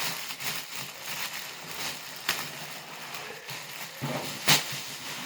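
Packaging tape and wrapping being pulled and torn off a box, with a rustling, crackling run of small noises. There is a sharp knock about four and a half seconds in.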